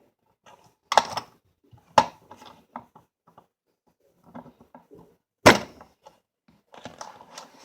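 Sharp clicks and knocks of toy train locomotive parts being handled and fitted together during reassembly, the loudest about one, two and five and a half seconds in, with lighter rattling near the end.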